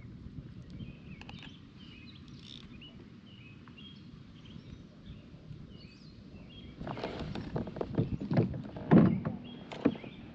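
Birds chirping faintly over a quiet background, then, about seven seconds in, a few seconds of loud knocking and scraping from gear being handled on the kayak, the loudest knock near the end.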